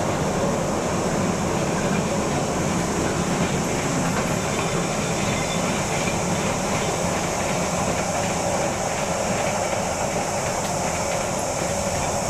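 Freight train running away along the track, a steady rumble and clatter of wheels on rail that grows slightly fainter as it recedes.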